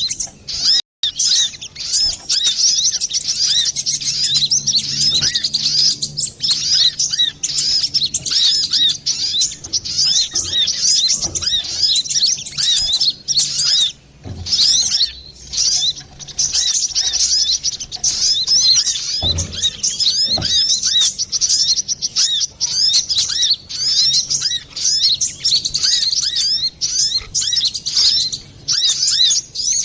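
Kolibri kelapa (brown-throated sunbird) singing busily: a fast, nearly unbroken run of high, thin chirps and trills, with only brief pauses. This is the lure call used to draw out or stimulate caged sunbirds.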